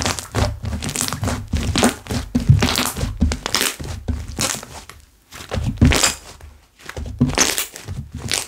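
Slime being squeezed, pressed and stretched by hand, with irregular sticky crackling pops and soft low thumps.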